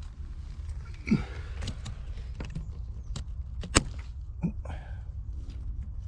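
Footsteps and handling knocks on rough ground: about five sharp thuds, the loudest about a second in and just before four seconds, over a steady low rumble.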